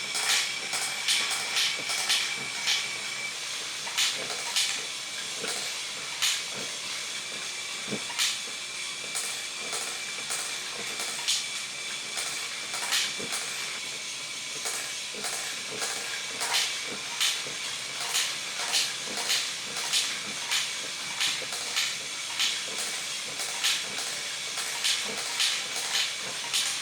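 Battery-powered Plarail toy trains running on plastic track: a steady hiss with frequent irregular clicks, and a thin steady whine for the first few seconds.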